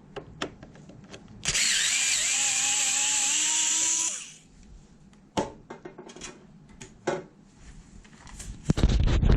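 Cordless electric screwdriver or drill running for about two and a half seconds, its pitch wavering slightly, during disassembly of a wall-mounted air conditioner. Afterwards come a few sharp clicks and a louder knock near the end.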